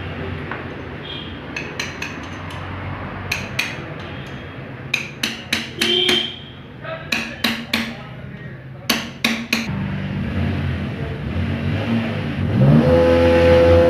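Workshop clatter of metal tools tapping and clinking on engine parts, a few sharp knocks at a time, over a steady low hum. Near the end a pitched whine rises and then holds.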